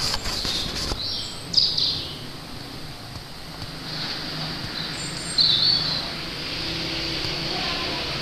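A bird, unidentified, giving short high-pitched calls: two close together about a second in and another just after five seconds, over a steady low rumble. A few clicks at the very start.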